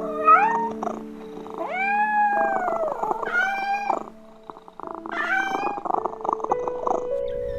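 Domestic cat meowing four times, the second meow long and arched, rising then falling in pitch.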